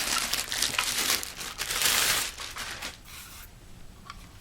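Plastic packaging crinkling and rustling as a speaker is unwrapped from the box. It is loud for about two seconds, then drops to a few light handling clicks.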